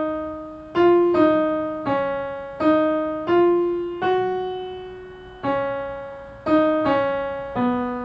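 Piano playing a slow phrase in two parts, a new note or pair of notes struck roughly every half second to second, each ringing and dying away.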